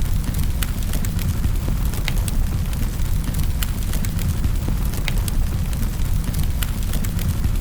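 Wood fire in a fireplace crackling, with sharp irregular pops over a steady low rumble of the flames.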